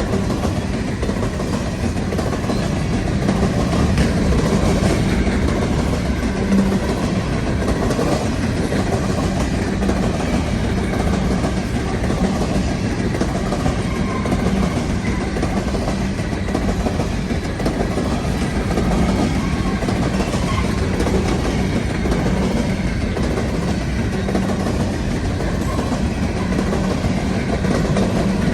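Empty potash cars of a long CN freight train rolling steadily past, with wheels rumbling and clattering over the rail.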